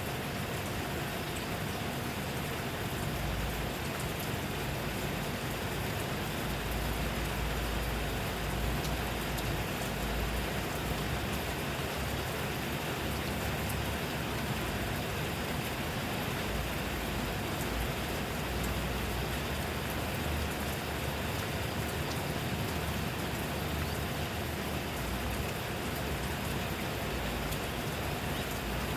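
Steady rain falling: an even hiss of drops, with a low rumble that swells and fades now and then.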